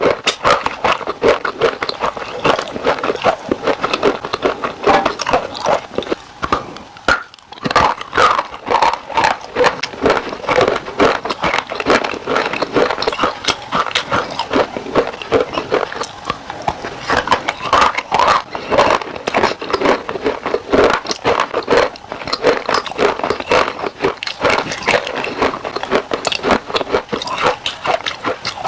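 Close-miked chewing and crunching of crisp food in a mouth: a dense run of sharp crackles and wet clicks, with a brief pause about seven seconds in.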